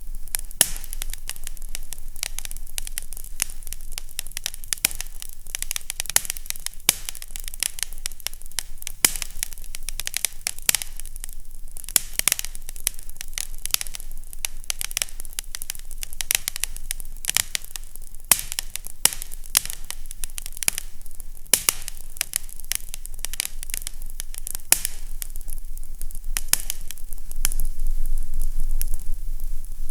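Fireplace fire crackling, with frequent irregular pops and snaps over a steady hiss and a low hum.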